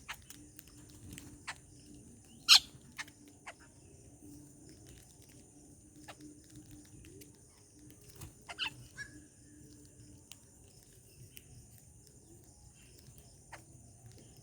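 Birds feeding, with scattered sharp clicks and taps: one much louder about two and a half seconds in, and a short cluster of them around eight and a half seconds. A faint steady high hiss sits underneath.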